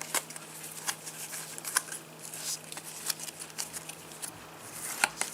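Topps Match Attax trading cards being handled and flicked through in the hand: a string of light, irregular clicks and rustles as the cards slide past each other, over a faint steady low hum.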